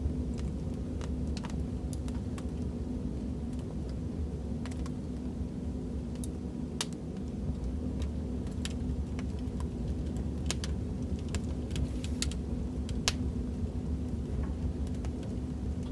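Wood fire in a fireplace crackling: a steady low rumble of the flames with irregular sharp pops and snaps.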